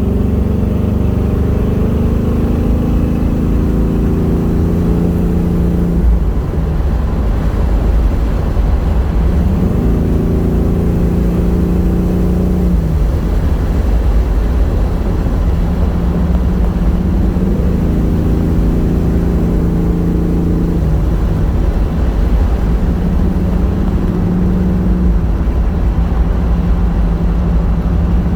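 A 1978 Pontiac Trans Am's V8 heard from inside the car while driving, with a steady low rumble and road noise throughout. The engine note climbs under throttle and then falls away about four times: around six seconds in, near thirteen seconds, near twenty-one seconds, and once more near the end.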